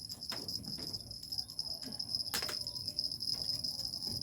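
Insects trilling steadily at one high pitch, with a single sharp click a little past halfway.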